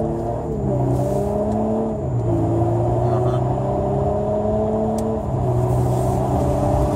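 Audi Q7 3.0 TDI V6 turbodiesel, with a Stage 2 tune and a full aftermarket exhaust, accelerating hard, heard from inside the cabin. The engine note climbs steadily, drops back with an upshift about two seconds in and again about five seconds in, then climbs again.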